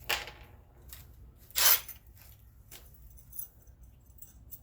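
Light clinks of small metal hardware being handled, with a short scrape about a second and a half in and a few faint clicks after.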